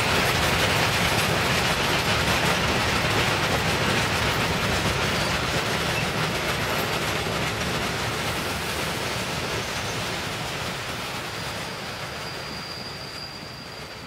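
Freight train of loaded coal wagons rolling past, wheels clattering steadily over the rails, slowly fading out. A faint high steady whine comes in near the end.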